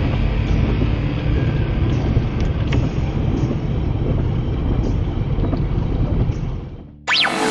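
Steady rush of gusting wind mixed with vehicle and traffic noise in stormy weather. It fades out about six and a half seconds in, and electronic music with rising sweeps cuts in just before the end.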